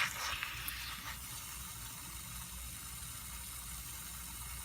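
Faint steady hiss and fizz of soapy-water bubbles as air leaks out around the spokes of a motorcycle's spoked rim, with a few light clicks in the first second: the rim is losing air through the spoke holes.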